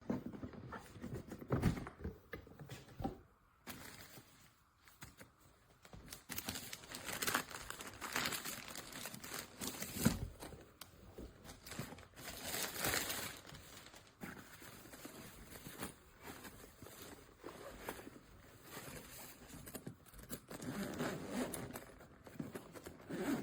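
Irregular rustling, crinkling and small knocks of things being handled, with no steady motor running.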